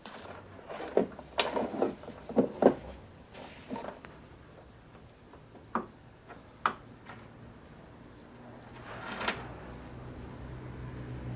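Irregular knocks and clicks of metal parts and tools being handled during work on a benchtop lathe, with a low steady hum coming in near the end.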